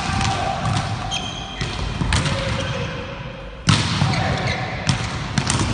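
Volleyballs being hit hard in a sports hall: several sharp smacks of ball on hand or floor, each with a short hall echo, the loudest about two-thirds in. Short high squeaks, typical of court shoes, come between the hits.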